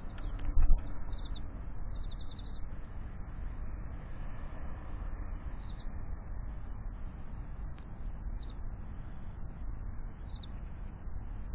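Small birds at a window feeder giving short, high chirps every few seconds, with one quick rapid trill of repeated notes about two seconds in. A brief loud thump sounds about half a second in.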